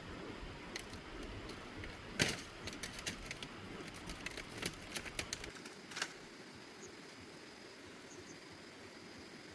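A run of irregular light knocks and clicks, the loudest about two seconds in. They stop about six seconds in, leaving a faint steady hiss.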